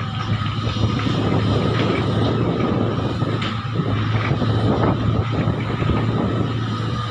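Heavy diesel earthmoving machinery running steadily: a low engine drone with a constant higher whine riding above it.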